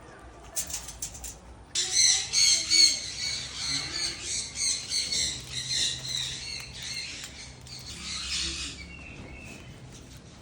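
A bird squawking, a rapid, harsh run of calls that starts suddenly about two seconds in and stops a little before the end, after a few short clicks.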